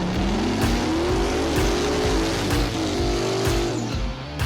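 Drag-racing car accelerating hard: the engine's pitch climbs steadily for about three seconds, then drops away near the end, with some tire squeal. Background music with a steady beat plays underneath.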